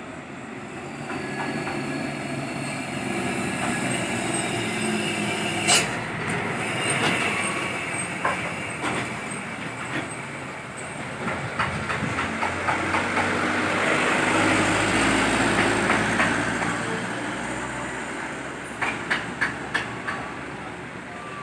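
A heavy vehicle passing, its running sound building to a peak and then fading, with a few sharp clicks near the end.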